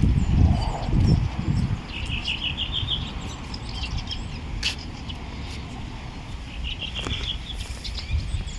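A small songbird singing a short, fast trill of repeated high notes, twice. Low wind rumble is on the microphone at the start, and there are a couple of sharp clicks.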